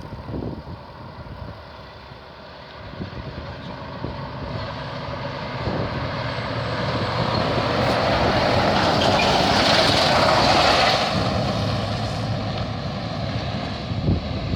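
A heavy truck drives past, its engine and tyres growing louder to a peak about two-thirds of the way through, then fading as it moves away.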